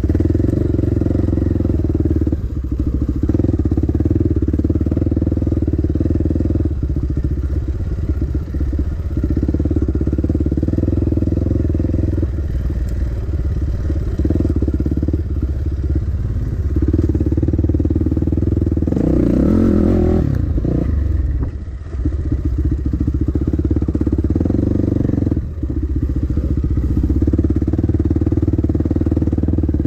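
Dirt bike engine running under way, the throttle easing off and opening again several times, with a louder surge about two-thirds of the way through.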